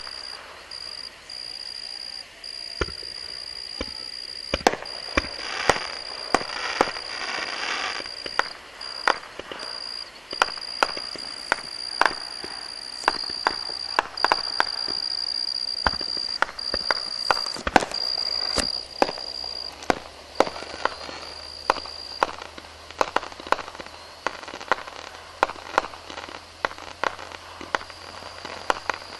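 Aerial fireworks display: a long, irregular run of sharp bangs from bursting shells, at times several a second, with a stretch of crackling between about five and eight seconds in. A steady high-pitched whine runs behind the bangs for most of the time.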